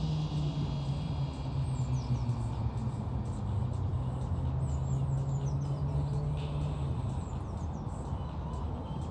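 A steady low engine hum that fades about seven seconds in, with birds chirping in short falling calls.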